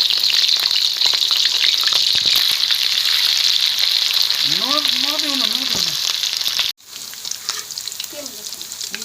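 Boiled potatoes frying in hot oil: a steady sizzle with crackling. About two-thirds of the way through it drops suddenly to a quieter sizzle.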